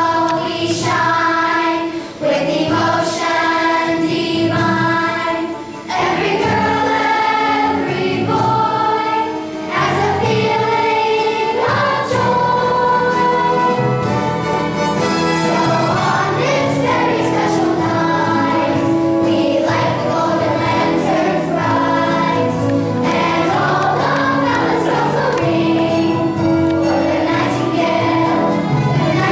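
A choir singing a song with instrumental accompaniment, with short breaks between phrases in the first ten seconds.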